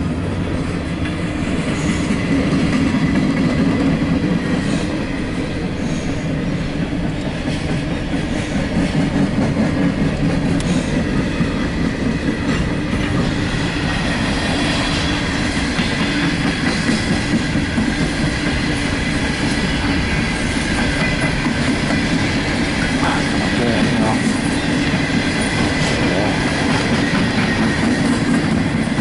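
Empty coal hopper cars of a CSX freight train rolling past with a steady clatter of steel wheels over the rails and a faint high wheel squeal throughout.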